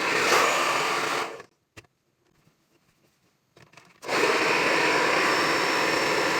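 Conair InfinitiPro hair dryer with a diffuser attachment blowing steadily; it cuts off abruptly a little over a second in, leaving near silence with a faint click, and starts blowing steadily again about four seconds in.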